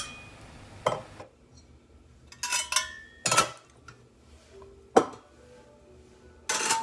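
Blades of a Saladmaster manual vegetable grinder being handled: about five separate clinks and knocks, some with a brief metallic ring.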